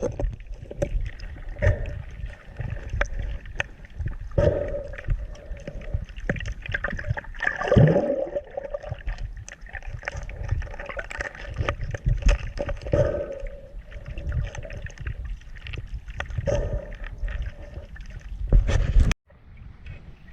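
Water gurgling and sloshing in irregular surges; the sound cuts off suddenly near the end.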